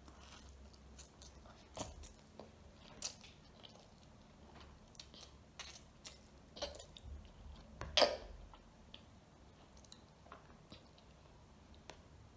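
A child chewing a mouthful of ramen noodles, with scattered short wet mouth smacks and clicks, the loudest about eight seconds in.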